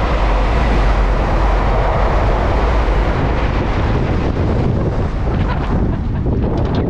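A train passing close by: a loud, steady rush and rumble of the train and its air blast, with wind buffeting the microphone, easing a little near the end.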